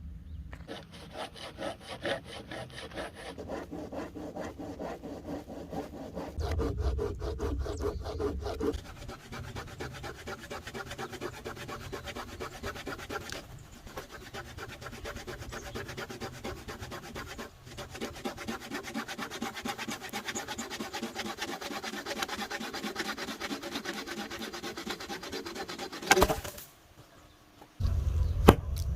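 A saw cutting through firewood in a fast, steady run of strokes. Near the end the cutting stops with a sharp knock, then a moment of quiet.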